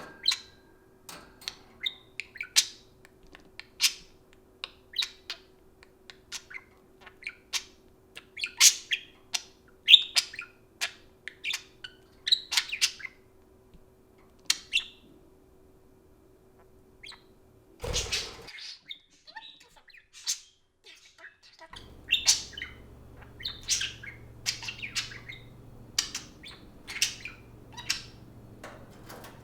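Pet budgerigars chirping and squawking in many short, high calls. About two-thirds of the way through there is a brief burst of noise and a few seconds' pause, then the calls resume over a steady low hum.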